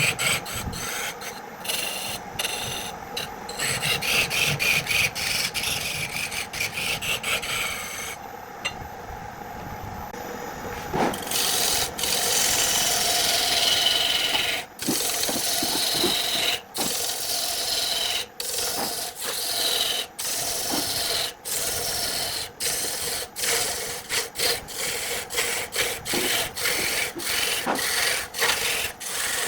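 A tool working wood by hand: repeated rubbing and scraping strokes, broken by short pauses, which come about every second or two in the second half.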